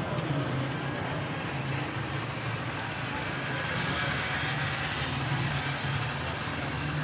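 Steady busy-street noise: vehicle engines running, with a continuous low hum and a dense wash of background sound.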